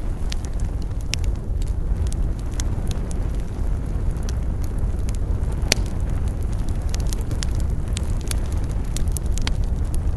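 Wood campfire crackling and popping in irregular sharp snaps, one louder pop a little past the middle, over a steady low rumble.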